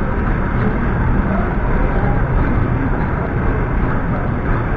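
Long-distance passenger train pulling slowly into the platform, its coaches rolling past with a steady low noise.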